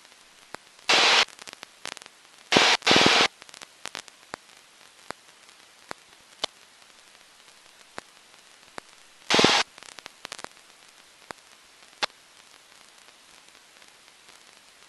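Cockpit intercom audio with no engine heard: quiet, broken by four short bursts of static hiss and scattered clicks.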